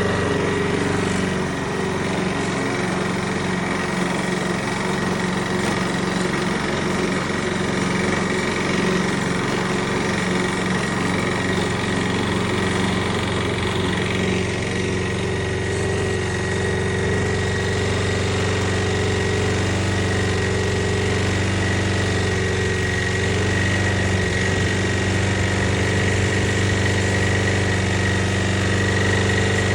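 Lawn mower engine running steadily at an even speed, with a thin, steady high whine above the engine hum.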